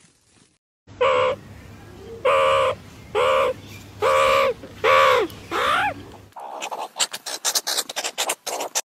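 A bird calling six times, about a second apart, each call short and pitched, then a quick run of sharp clicks.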